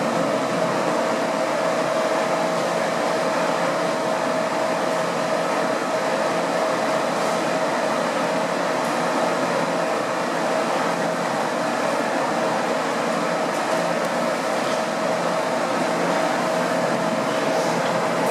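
Boeing 787-8 Dreamliner's auxiliary power unit, a small gas turbine in the tail cone, running steadily at the gate: an even rushing exhaust noise with a steady whine over it.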